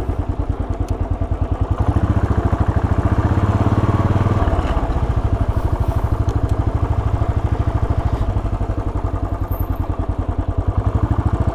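Royal Enfield Bullet 500's air-cooled single-cylinder four-stroke engine running at low revs, with a rapid, even beat of exhaust pulses.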